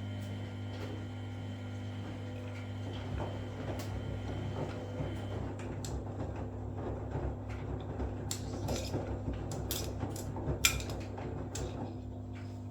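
Washing machine running mid-cycle: a steady motor hum with irregular clicks and knocks, the sharpest about ten seconds in.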